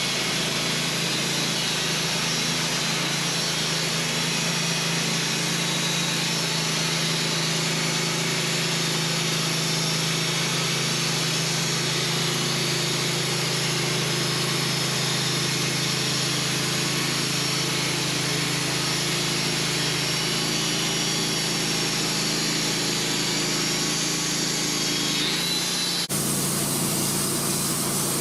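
Wood-Mizer LT15 bandsaw mill sawing a larch log, making 2-inch cuts: the motor runs steadily under load while the band blade cuts through the wood. Near the end the sound changes abruptly.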